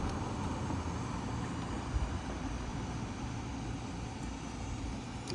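Steady low rumble of distant engine noise, with a faint click about two seconds in.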